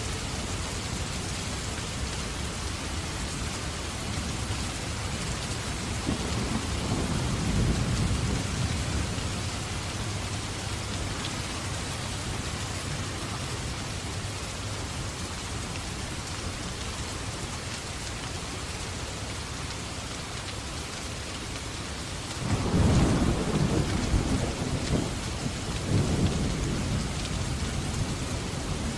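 Steady rain falling, with thunder rumbling twice: a low roll a few seconds in, and a louder crack about two-thirds of the way through that rolls on for several seconds.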